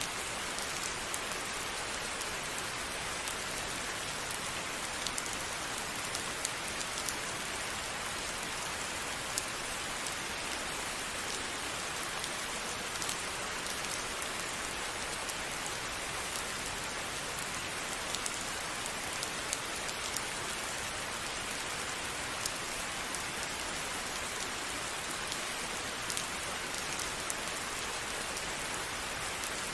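Steady rain falling on a surface, an even hiss with frequent sharp individual drop ticks scattered throughout.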